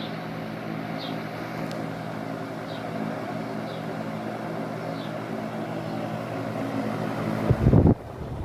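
Qualitas Q600P 130 W wall fan running at full mains power without its speed-control box: a steady motor hum under the rush of air from the blades. Near the end there is a loud low rumble for about half a second, like air buffeting the microphone, which cuts off suddenly.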